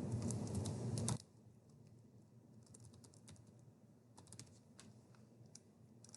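Computer keyboard typing: faint, scattered key clicks at an irregular pace. A low steady hiss fills about the first second, then cuts off.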